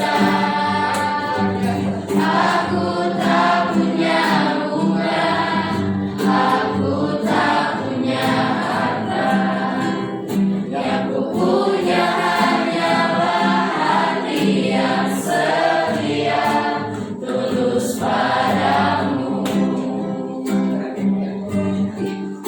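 A classroom of students singing a song together in unison, a group of voices carried along by a steady low accompaniment.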